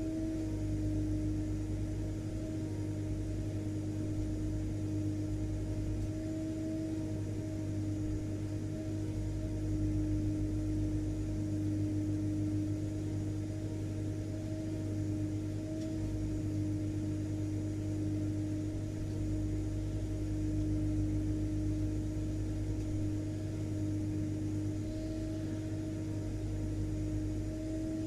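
Vacuum cleaner motor running at a steady pitch: a constant hum over a low drone.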